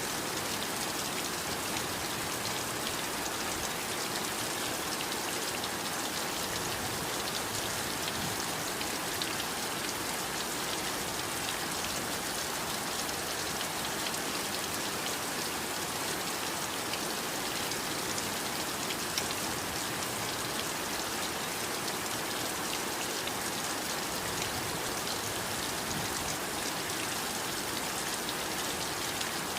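Heavy rain falling steadily, a dense even hiss with many small drop ticks scattered through it.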